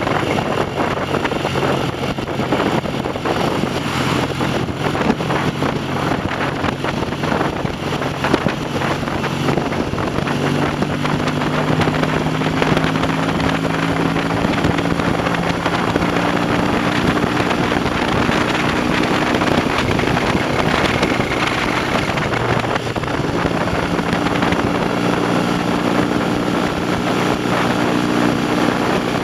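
Classic motorcycle engine running under way on the road, its pitch climbing slowly, dropping about two-thirds of the way through and then picking up again, with wind rushing over the microphone.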